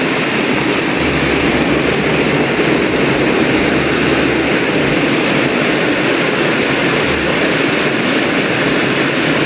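Heavy tropical rain pouring steadily, a dense, even hiss.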